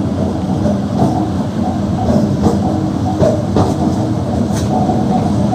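MEMU electric passenger train running along the track, heard from inside a coach: a steady rumble with irregular clicks and knocks from the wheels.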